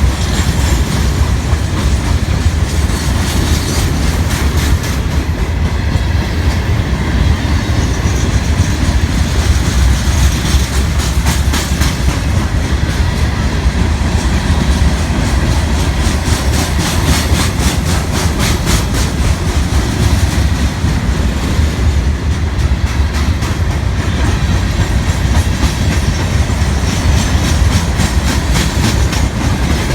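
A train's cars rolling past on the track with a steady, heavy rumble, the wheels clacking rhythmically over rail joints in runs of quick clicks.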